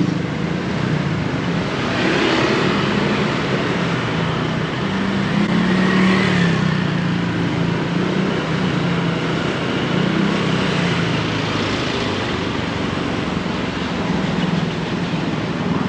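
Honda Click 160 scooter's single-cylinder engine running while riding, with wind and road noise. The engine note wavers up and down a little with the throttle.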